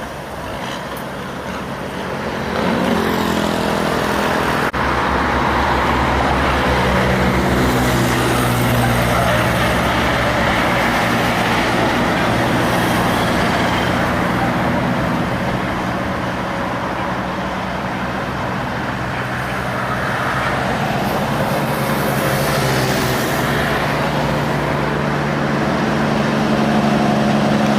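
Heavy diesel truck engines running as trucks pass on the road, over steady traffic noise; the engine sound grows louder about two and a half seconds in and stays up.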